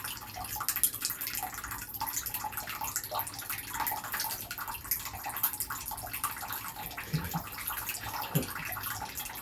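Water running and splashing in a small basin during a pet bird's bath, a steady crackling patter.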